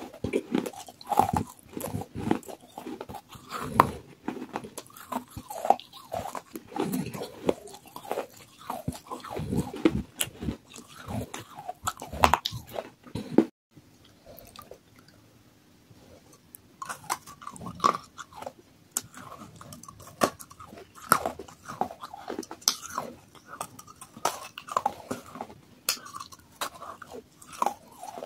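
Close-up chewing and crunching of wet, water-soaked baked clay pot pieces, with sharp crackly crunches and wet mouth sounds. About halfway through the crunching stops abruptly for a few seconds, then softer chewing resumes.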